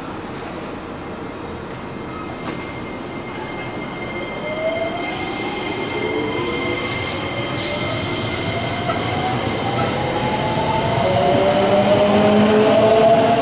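Electric commuter train pulling away, its traction motors whining in a tone that rises steadily in pitch from about four seconds in as it gathers speed, over the steady noise of the running train, growing louder toward the end.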